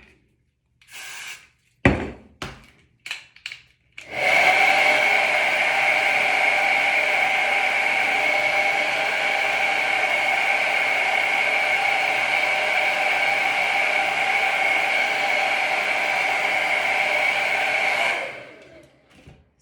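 Hair dryer blowing steadily for about fourteen seconds, a steady whine in its rush of air, then winding down and cutting off near the end. Before it starts there is a short hiss of aerosol hair spray and a knock or two of handling.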